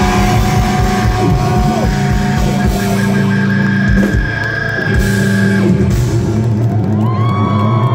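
Live punk rock band playing loud, with guitars, bass and drums. About six seconds in the drumming stops and a chord rings on while voices shout over it.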